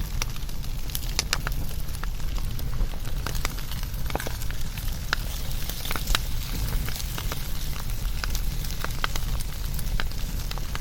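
Wood campfire burning in a fire-pit stand, crackling with sharp, irregular pops.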